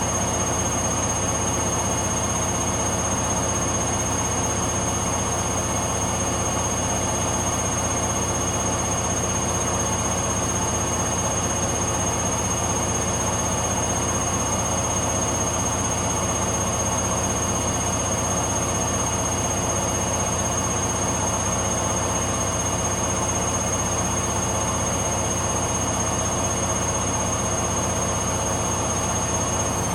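Hoover Dynamic Next DXOC58AC3 washing machine in its final spin at full speed: a steady high motor whine over a constant drum hum. The owner judges the speed to be about 1000 rpm rather than the 1200 rpm selected.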